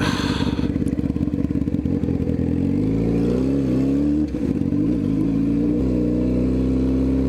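Motorcycle engine running with a low, rough pulse, then accelerating: its pitch rises through the gears, dropping at a shift about four seconds in and again near six seconds. A brief hiss at the very start.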